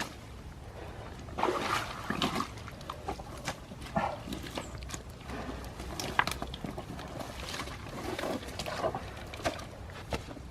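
Irregular sloshing and splashing in muddy water, in short uneven bursts, over a steady low rumble.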